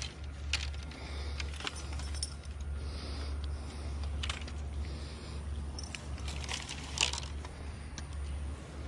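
Light metallic clinks and jingles of small metal objects, a handful of scattered ones with a cluster about six to seven seconds in, over a steady low rumble.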